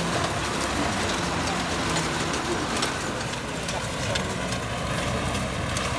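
Wood fire crackling, with scattered sharp pops over a steady rushing noise.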